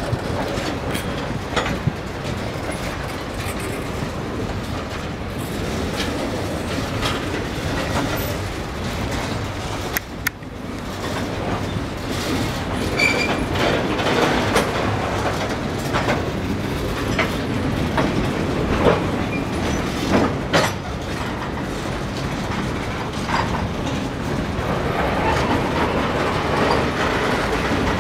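Freight cars rolling past at close range, open-top gondolas with a tank car, their steel wheels rumbling steadily and clicking over the rail joints. A short high tone cuts through about thirteen seconds in.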